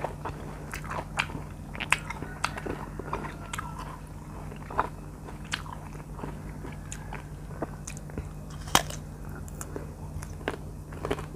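Close-miked biting and chewing of slices of ripe R2 mango: irregular soft crunches and wet mouth clicks, with one sharper crunch near the end.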